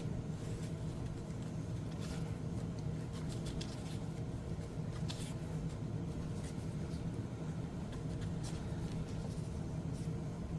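Paper and cardstock being handled, with scattered light rustles and taps, over a steady low background hum.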